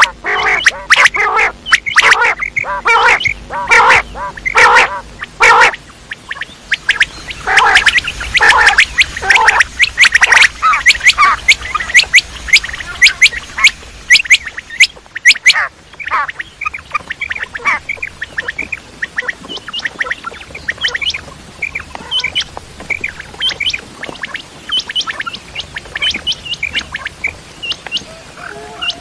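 Quails calling: many short, sharp calls in quick succession, dense and loud through the first half, then sparser and fainter.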